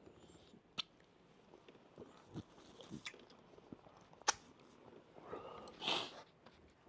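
Close, faint mouth sounds of a person eating okra soup: chewing and swallowing, with a few sharp clicks and a louder breathy mouth sound about six seconds in.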